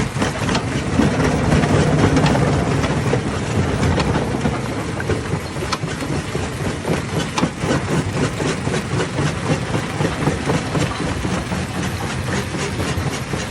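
Hammer-type stone crusher running under load, a steady low drone overlaid with rapid, irregular clatter and knocks of rocks being smashed.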